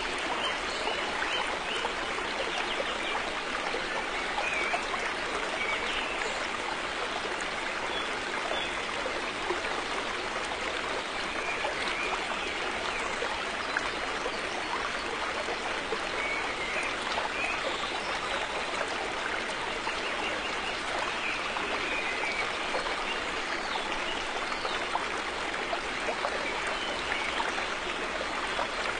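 River water flowing steadily, an even rushing with small splashes and gurgles over it.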